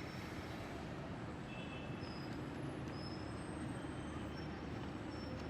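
A steady low rumble of background noise, with a few faint, brief high-pitched chirps about two to three seconds in.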